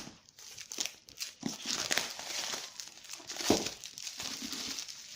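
The protective wrapping on a phone's retail box being torn off and crumpled: an irregular crinkling with a few sharper rips, one about one and a half seconds in and another a little past three seconds.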